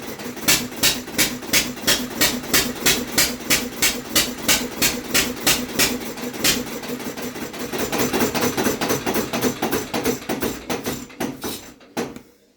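Home-built Quadricycle engine running on petrol with Ford trembler-coil ignition, firing in sharp, evenly spaced beats about three a second. After about six seconds the beats blur together and grow louder, then the engine runs down and stops near the end.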